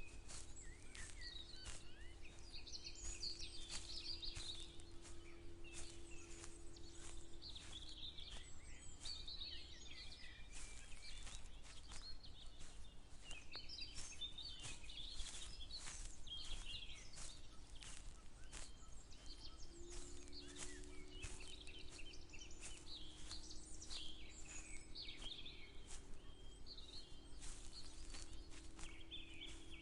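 Songbirds chirping and singing over footsteps at a walking pace, each step a short crunch about every half second. A steady low hum is underneath; it fades out about a third of the way in and comes back after the middle.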